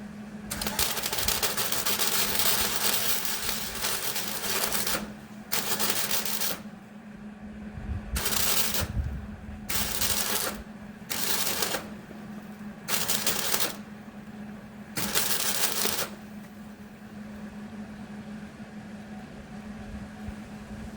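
Welding arc crackling in seven bursts, the first about four seconds long and the rest about a second each, stopping about three-quarters of the way through. It is a weld patch on a leaking hydraulic cylinder with the welder turned up high. A steady low hum runs underneath.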